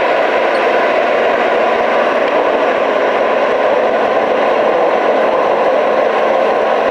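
HVAC equipment running steadily: an even, unbroken rush of fan or blower noise with a faint steady hum in it.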